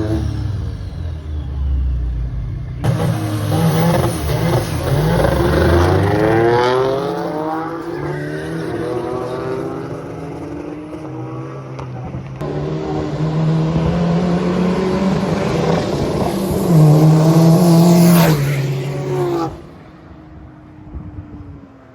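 Drag-racing cars launching and accelerating down the strip, engines revving and climbing in pitch through the gears, in several short runs one after another.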